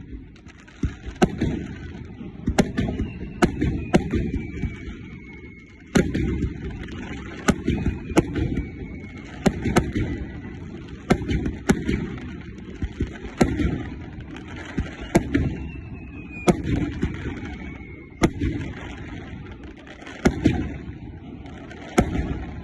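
Fireworks going off: sharp bangs about once a second at an irregular pace over a low rumble, with a few whistles that glide down in pitch.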